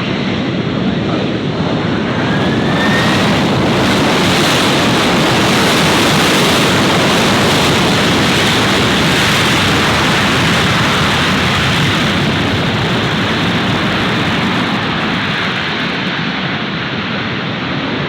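Jet airliner's engine noise, a broad roar that swells over the first few seconds with a faint rising whine, holds loudest through the middle and eases slightly toward the end.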